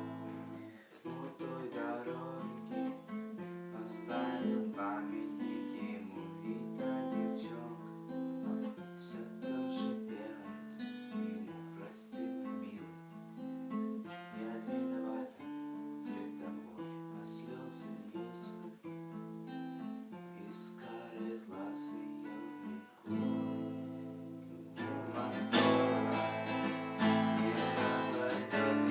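Acoustic guitar playing: single picked notes and chords in a steady pattern, turning to fuller, louder strumming about three-quarters of the way through.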